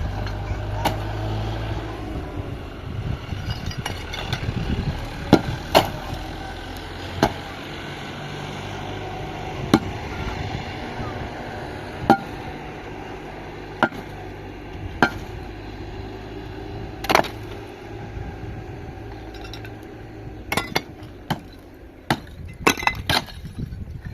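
Repeated sharp blows of a hand tool, an irregular knock every second or two that comes quicker near the end. A low engine rumble dies away in the first couple of seconds.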